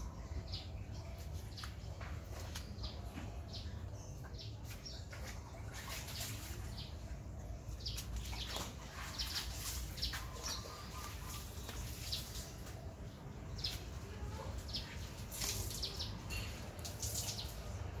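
Small birds chirping: many short, high calls scattered throughout, busier in the second half, over a steady low rumble.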